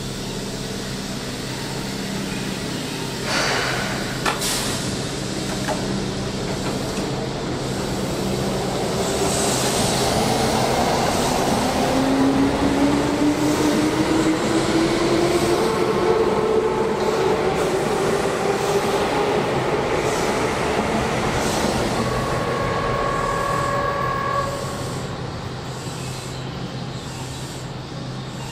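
Electric commuter train noise at a station platform: rumble with a couple of sharp clanks early on, then a train's traction-motor whine rising steadily in pitch as a train accelerates. A brief steady two-tone beep comes near the end.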